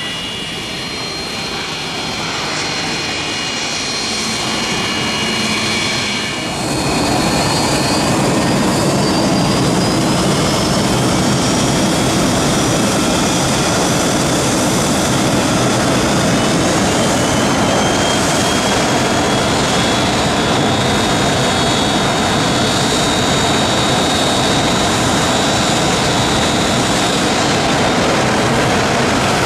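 Jet aircraft engines spooling up at the runway end. A whine climbs in pitch, then about six seconds in a sudden, loud rush of jet blast holds steady while the whine keeps rising.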